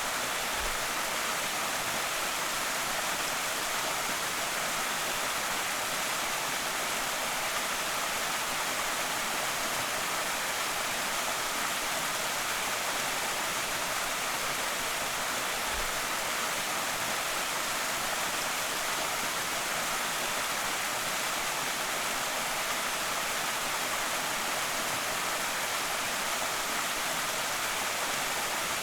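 Small creek waterfall, water splashing and rushing in a steady, even hiss.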